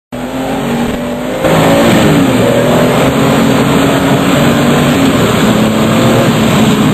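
RUF CTR Yellow Bird's twin-turbocharged flat-six engine running hard under way, its note shifting in pitch as it revs. It gets louder about a second and a half in.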